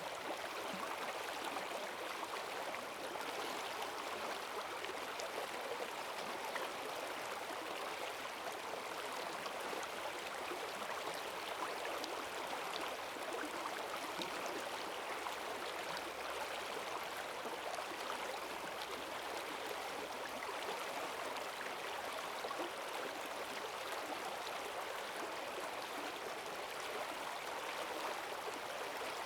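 Forest stream swollen by heavy rain, rushing water with a steady, even churn and gurgle.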